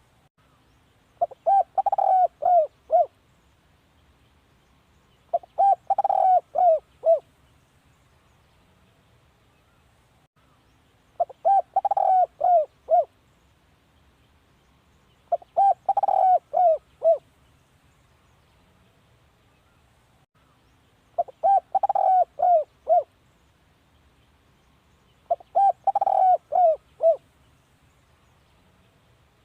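Spotted dove cooing: six phrases of several short coos each, coming every four to six seconds. This is the dove's call used as a decoy to draw in wild doves.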